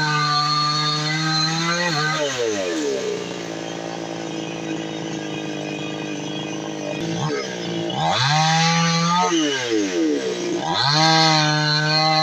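Two-stroke chainsaw engine running. It is held at high revs, drops to idle for several seconds, then is revved up twice more, each time falling back.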